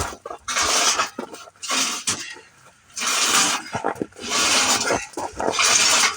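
A man breathing hard and straining with exertion, a loud heave of breath about once a second, while manhandling a heavy motorcycle.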